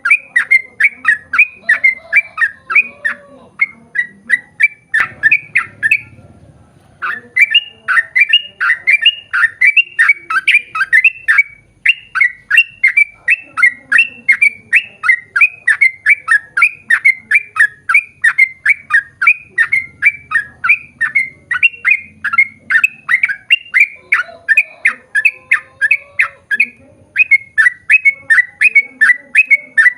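Yellow-vented bulbul (trucukan) singing a long, rapid-fire run of repeated chattering notes, about three a second, that breaks off briefly about six seconds in and then carries straight on.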